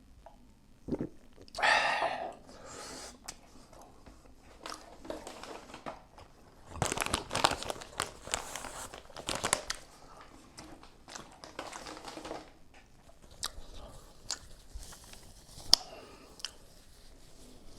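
Close-miked eating sounds: bites and chewing with crinkling, in irregular bursts that are loudest about two seconds in and again from about seven to ten seconds in.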